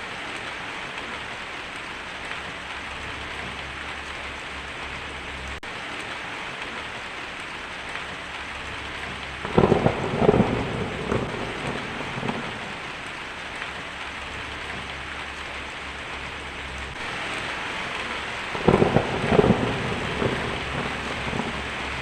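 Heavy rain drumming steadily on a tin roof, with two rolls of thunder: one about ten seconds in and another near the end.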